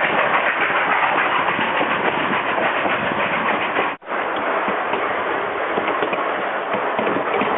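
Narrow-gauge train running along the rails, a steady dense rumble and clatter. The sound cuts out for an instant about four seconds in, then carries on as before.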